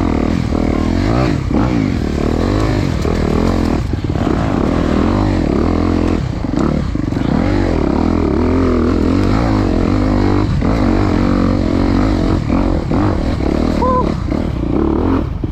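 Dirt bike engines running and revving, their pitch rising and falling again and again.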